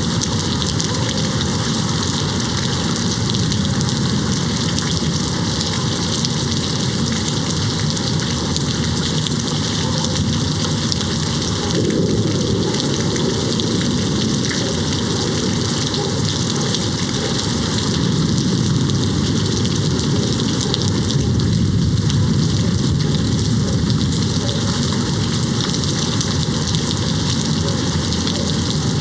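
Steady rain beating on a window pane, an even hiss. A low rumble of distant thunder swells briefly about twelve seconds in and again for several seconds past the middle.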